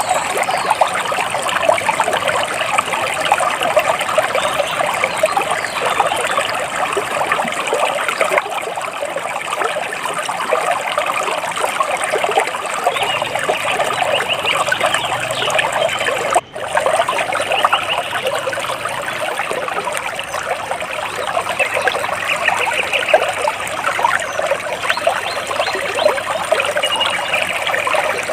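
Water splashing and trickling steadily, with a momentary break in the sound about sixteen seconds in.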